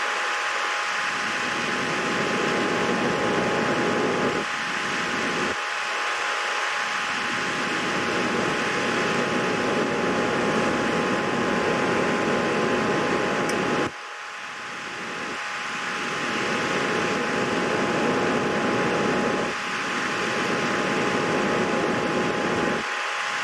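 Steady whirring hiss like a small fan or air-moving machine, with two faint steady whine tones running through it; the level drops suddenly about fourteen seconds in, then builds back up.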